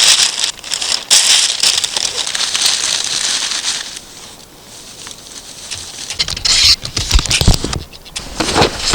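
Newspaper being crumpled and rustled by hand, a crackly hiss for about four seconds. After a quieter spell, low thumps and scuffs of handling near the end.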